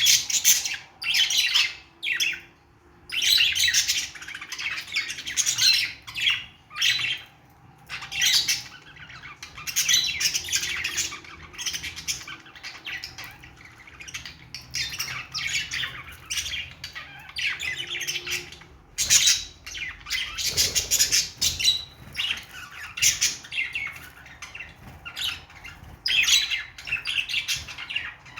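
Budgerigars chattering and warbling in repeated high-pitched bursts of a second or two, with short pauses between them.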